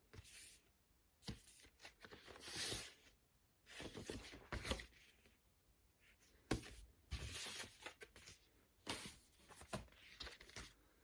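Faint rustling and sliding of cardboard LP sleeves being handled, in irregular bursts with a few light knocks.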